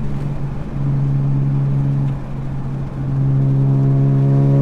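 Nissan 370Z Nismo's 3.7-litre V6 heard from inside the cabin, running at a near-steady pitch. The note eases briefly around two seconds in, then comes back louder and fuller about three seconds in as the throttle opens again.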